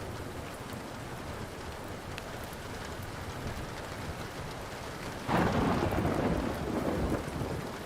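Steady rain with a few faint crackles of a wood fire. About five seconds in, a sudden clap of thunder breaks in and rumbles for about two seconds before fading.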